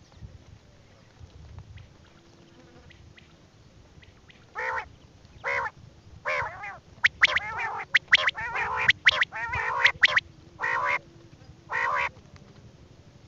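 A game bird calling in a series of short, harsh, nasal calls that start about four seconds in and come thick and fast in the middle before stopping near the end.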